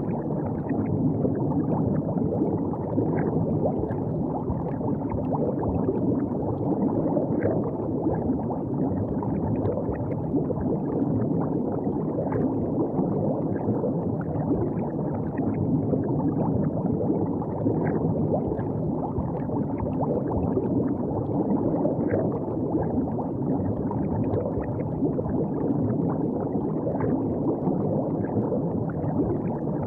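River water gurgling and lapping at the bank: a steady low rush of flowing water with many small splashes through it.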